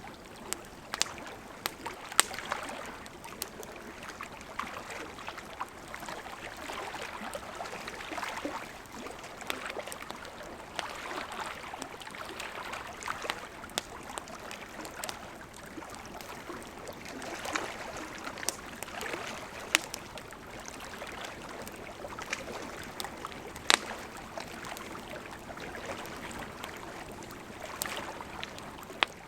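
Wood campfire crackling, with scattered sharp pops, over small lake waves lapping gently at the shore in slow swells.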